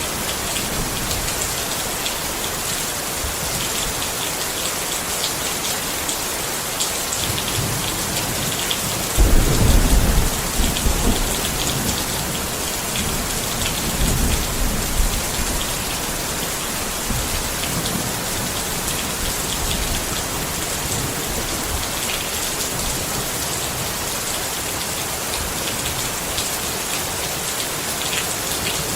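Steady rain pattering on a tent, with a low roll of thunder that breaks in about a third of the way through, is loudest for a few seconds, then rumbles on more faintly before fading.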